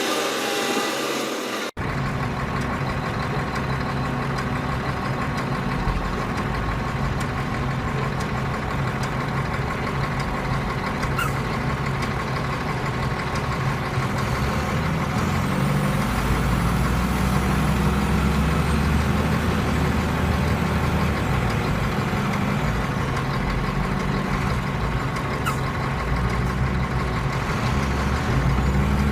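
Heavy vehicle engine running steadily with a low rumble, growing louder about halfway through.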